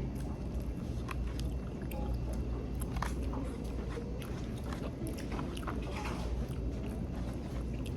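Close-up chewing and biting of crunchy, hard-fried fish, with irregular crisp crunches and mouth clicks over a steady low hum.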